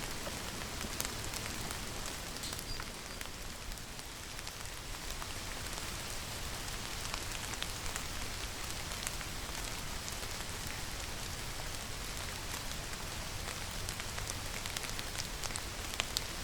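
Steady rainfall, an even hiss with many single drops ticking sharply throughout.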